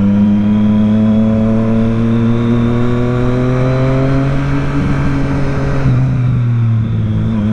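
Triumph Triple RS motorcycle's three-cylinder engine pulling under power, its pitch climbing slowly for about five seconds, then dropping about six seconds in as the throttle eases or a gear changes, before running steady.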